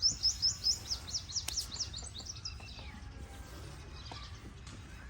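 A songbird singing a quick run of sharp, descending chirps, about five a second, that stops about two and a half seconds in, over a steady low rumble of background noise.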